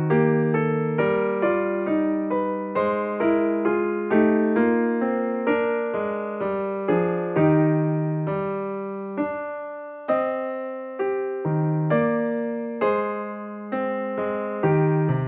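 Slow, gentle electric piano music: single notes and chords struck a few times a second, each fading away, with a brief pause about two thirds of the way through.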